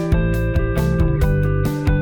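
Background music: a band track with guitar over a steady drum beat.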